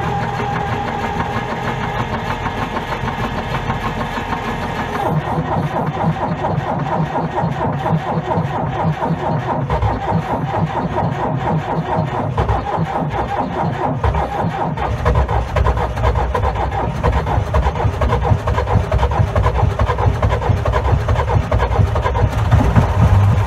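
LTZ T-40AM tractor's diesel engine being cranked by its starter in a −30 °C cold start, turning over rhythmically without catching. The sound changes about five seconds in and gets heavier and louder from about fifteen seconds on.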